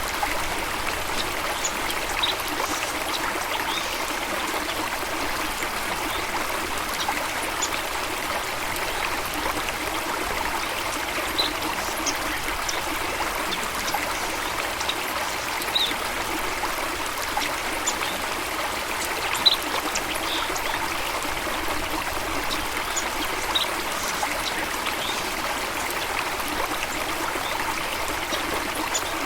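Running water in a steady, unbroken trickling rush, with a few brief high-pitched ticks scattered over it.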